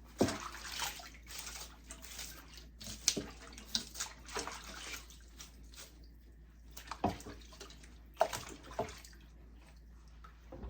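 Water sloshing and splashing in a filled sink as wet wigs are worked by hand. It comes in irregular bursts, with a few sharper splashes near the start, about three seconds in and about eight seconds in, and grows quieter near the end.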